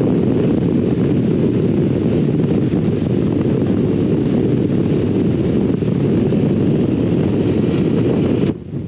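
Steady wind rush buffeting the microphone of a motorcycle on the move, a dense low rumble with the bike's running noise mixed in. It drops away abruptly for a moment near the end.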